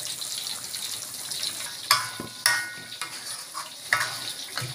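Sambal frying and sizzling in an aluminium wok as a spatula stirs it, scraping the pan. A little past the middle the spatula strikes the wok three times, each a sharp metallic clink that rings briefly.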